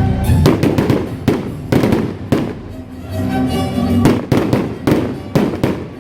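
Fireworks bursting in quick succession, about a dozen sharp bangs in clusters, with music playing underneath.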